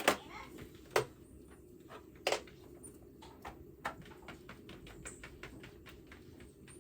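Irregular light clicks and taps, with sharper knocks near the start, about a second in and just after two seconds.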